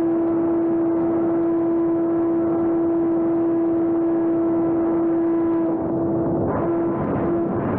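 Electric RC airplane's brushless motor and propeller whining at one steady pitch over a rushing wind noise. About two-thirds of the way through, the whine starts to waver and break up.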